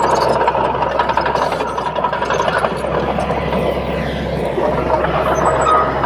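Komatsu D31P crawler bulldozer working, its diesel engine running steadily, with a thin steady whine over the engine noise.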